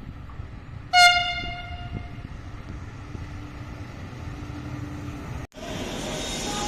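Train horn giving one short, high-pitched blast about a second in, the sound dying away over a second or so. After a sudden break near the end, a different scene: a train running past with a steady rumble.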